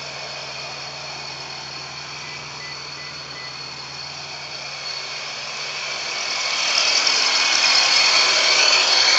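A car engine idles steadily. From about five seconds in, a rushing hiss swells up and becomes the loudest sound.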